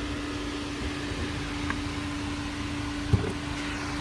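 Ford Focus RS's 2.3-litre four-cylinder engine idling with a steady, even hum, and a single thump about three seconds in.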